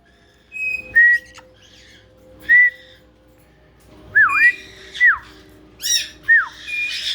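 Caique parrots whistling: a few short clear whistles, then from about four seconds in a quick run of looping whistles that swoop down in pitch, with a harsh squawk just before the end.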